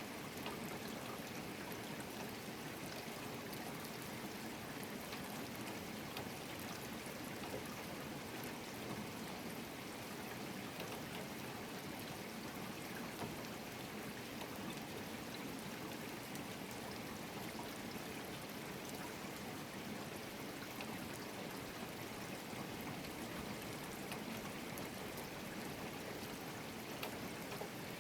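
Rain falling steadily in a rainstorm: an even hiss with scattered drop ticks.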